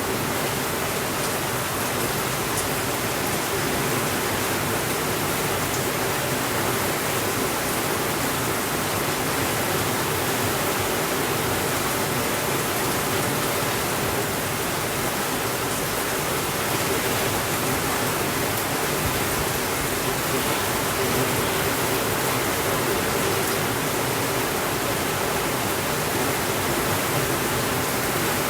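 Steady, even rainfall: a constant hiss with no breaks and no thunder.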